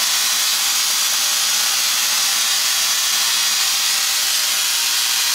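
Spark-gap Tesla coil running, its spark gap and discharges making a loud, steady, rasping hiss with a faint underlying buzz. The primary is tapped at twelve and a half turns, and the coil sparks low down but throws nothing off the toroid, a sign it is out of tune.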